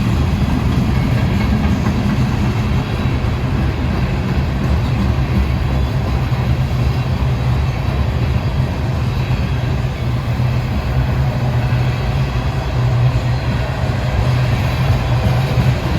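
Freight train running past, a steady loud low rumble with no letup.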